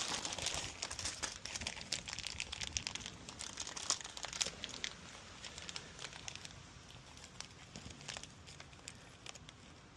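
Plastic packaging of a replacement parts kit crinkling and crackling as it is handled, busiest in the first few seconds and thinning out toward the end.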